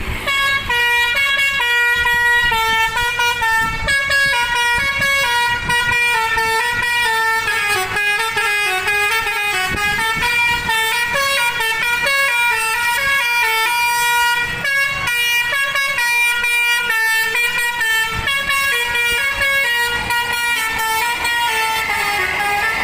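Basuri V3 multi-tone 'telolet' bus horn playing a quick melody, its notes stepping up and down with several sounding together.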